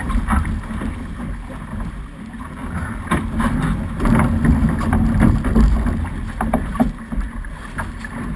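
A Snipe racing dinghy sailing in a fresh breeze: water rushing and slapping along the hull, wind buffeting the microphone, and a few sharp knocks and splashes about three, four and seven seconds in.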